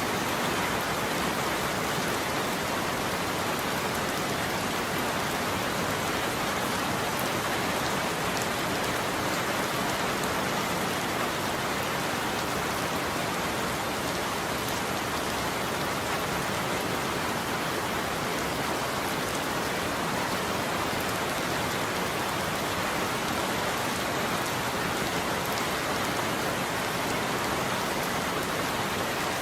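Steady rain falling on a roof, an even hiss at a constant level.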